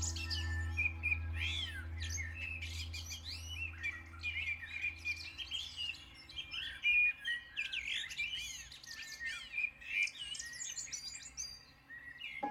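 Several songbirds singing and chirping together, many quick rising and falling calls overlapping. A low steady hum underneath stops about five seconds in.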